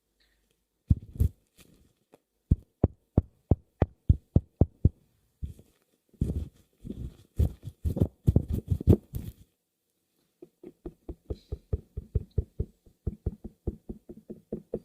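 Close-miked taps and knocks on a hard object: a run of separate sharp taps, then a quicker flurry, then steady lighter tapping at about four a second with a faint hollow ring.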